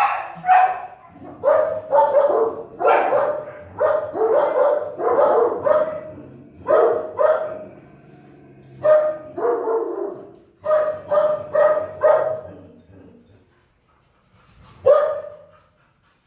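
Shelter dog barking in quick repeated runs of loud barks, dying down after about twelve seconds, with one more bark near the end.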